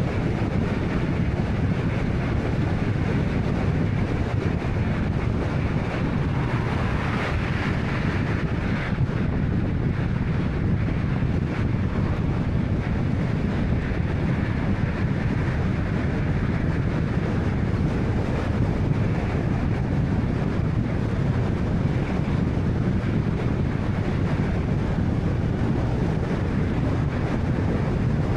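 Steady road noise of a 2013 Honda Fit 1.3-litre hatchback driving along: a low tyre-and-engine rumble with wind. A brief swell of hiss comes about seven to nine seconds in.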